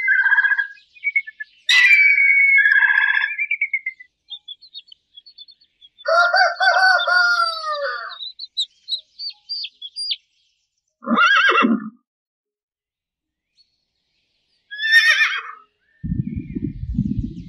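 A string of separate animal calls: bird calls, then a rooster crowing for about two seconds starting about six seconds in, then two more short calls. A low rumbling noise comes in near the end.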